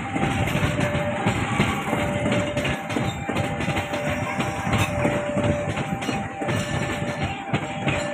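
A train passing on the rails, its wheels clattering over the track joints, with a faint tone that keeps breaking off and coming back.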